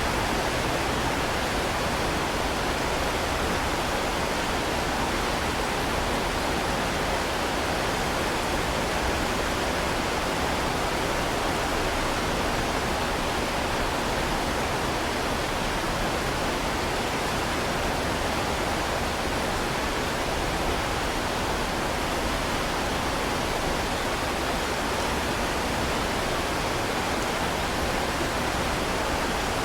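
Heavy rain falling in a steady, unbroken hiss with no separate drops or thunder standing out.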